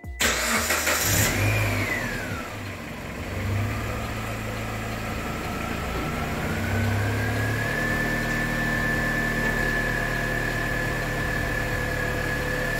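Mitsubishi Lancer's engine starting with a brief rush of cranking, then running at idle with a steady hum and a thin high whine that rises slightly and settles.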